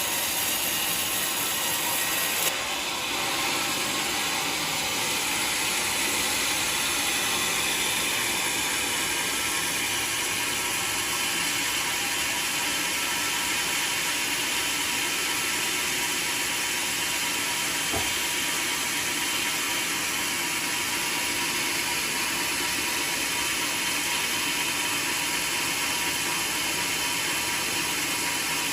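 Homemade sawmill running steadily, its blade sawing through waru (sea hibiscus) wood. A sharp knock sounds about two and a half seconds in.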